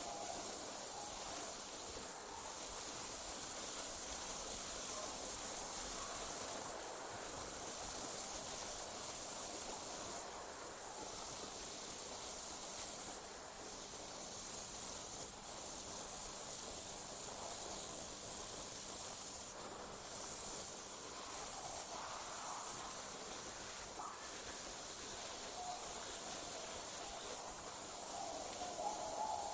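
Night insect chorus, crickets trilling in one continuous high-pitched band that breaks off for a moment every few seconds.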